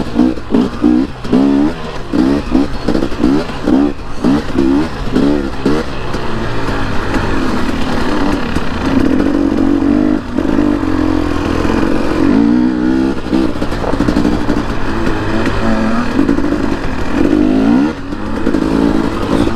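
Dirt bike engine on a trail ride, its pitch swinging quickly up and down as the throttle is worked for the first several seconds, then running steadier. It drops off briefly about ten seconds in and again near the end.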